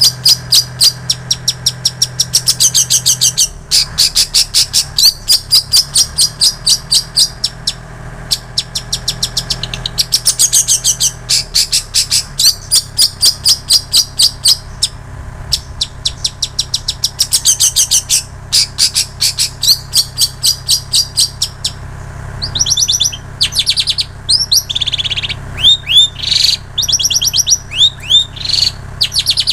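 Long-tailed shrike (cendet) singing a mimicked song, its repertoire filled with plain prinia (ciblek sawah) and canary (kenari) phrases. Rapid high trills of about ten notes a second come in bursts of a few seconds, turning to sharp downslurred chirps near the end.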